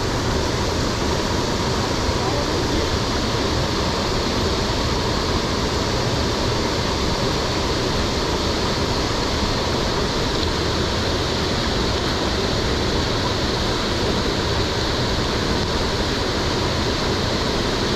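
Steady rushing hiss of rain and wind, unchanging throughout.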